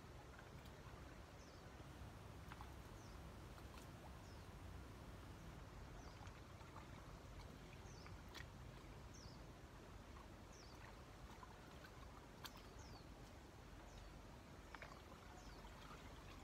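Faint short, high, falling bird chirps repeating every second or so over quiet background hiss, with a few faint clicks.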